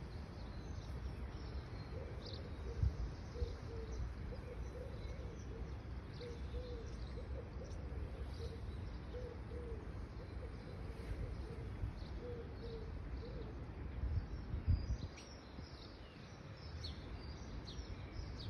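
Small birds chirping in short, high calls scattered throughout, over a steady low rumble of outdoor wind noise on the microphone, with a couple of soft thumps.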